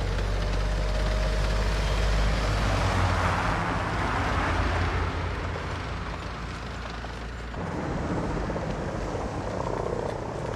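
Westland Wessex helicopter running, a steady heavy mix of rotor and engine noise. About three-quarters of the way through, the deep part drops away abruptly, leaving a lighter, more even rushing noise.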